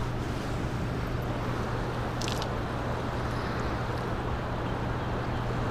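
A steady low hum under an even rushing noise, with a short click about two seconds in.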